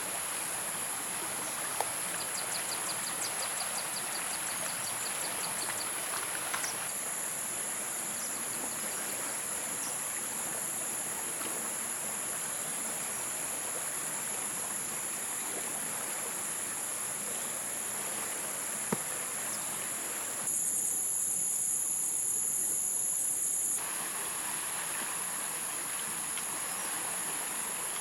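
Steady high-pitched chorus of insects over the even rush of a flowing stream. A few seconds in, a rapid ticking insect trill joins. For about three seconds past the middle the water drops away, leaving only the pulsing insect chorus.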